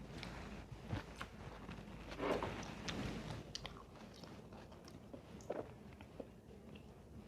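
A person eating close to the microphone: bites and chewing, with scattered small crackles and a denser crunchy patch about two seconds in.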